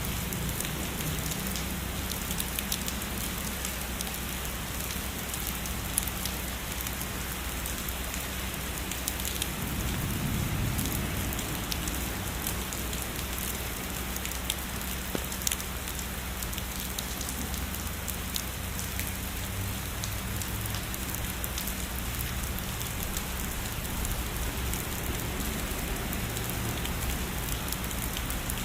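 Heavy steady rain falling, a dense hiss with many individual drops ticking. A brief low rumble swells about ten seconds in.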